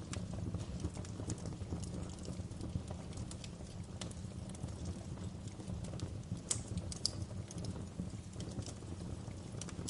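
Fireplace fire crackling: irregular sharp snaps and pops over a steady low rumble, with a couple of louder pops a little past the middle.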